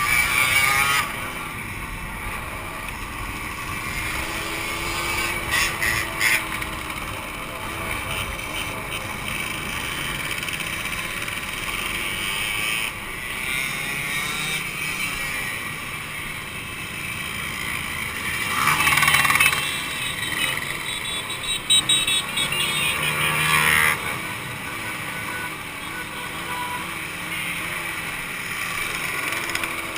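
Two-stroke motorcycle engines running, with a couple of louder stretches a little past the middle.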